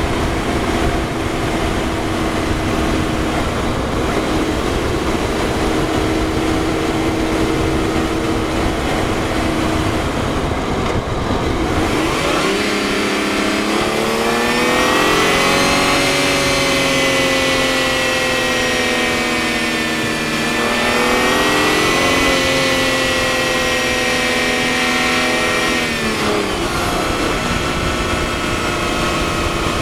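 Twin-turbo BMW engine, heard through a microphone in the engine bay, running steadily while cruising, then accelerating about twelve seconds in with its note climbing. The note stays high with a brief dip around twenty seconds, then drops away near the end as the throttle comes off.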